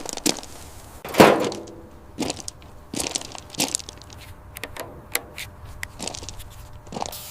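Irregular sharp clicks and knocks, about one or two a second. The loudest knock, about a second in, rings briefly.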